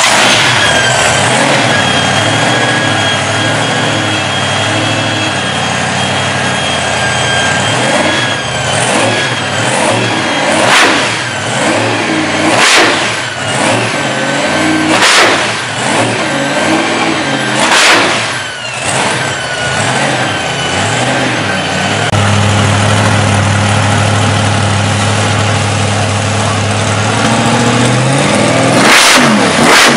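Twin supercharged Hemi V8 engines in a hot rod running at a lumpy idle, then blipped about five times in quick sharp revs. About 22 s in, a big engine idles steadily, and it is revved again near the end.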